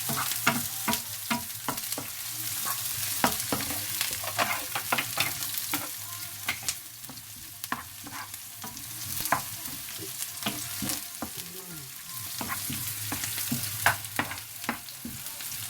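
Chopped garlic and onion sizzling in hot oil in a pan, with a spatula scraping and knocking against the pan at irregular moments as they are stirred.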